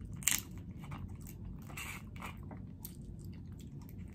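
Mouth sounds of someone chewing soft snow crab meat: a run of small wet clicks and smacks, with one sharper click about a third of a second in.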